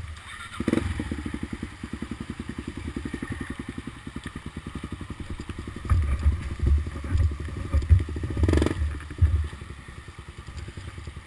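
Off-road motorcycle engine running at low revs with an even, fast pulsing beat. Heavier low thumps come in past the middle, with one sharp knock among them.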